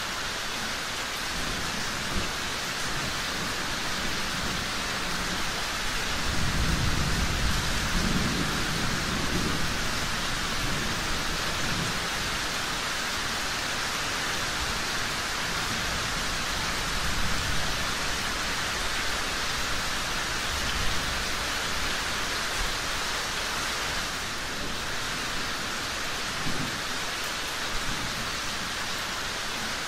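Steady heavy rain, with a low rumble of thunder swelling about six seconds in and fading over several seconds. A few short sharp pops stand out later on.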